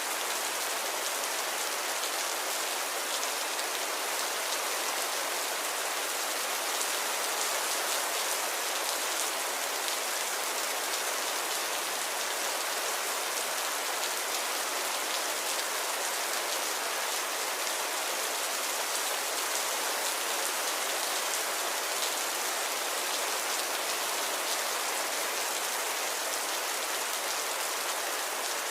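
Steady light rain, a drizzle pattering evenly on surfaces, with fine drop ticks in a constant hiss.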